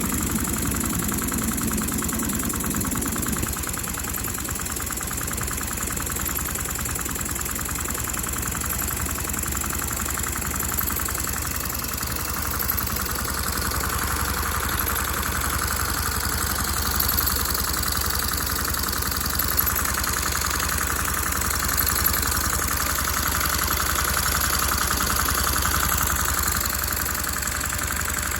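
LEGO overhead-valve vacuum engine running steadily: a rapid, even clatter of plastic parts over a steady hum, with a few slightly louder clacks along the way.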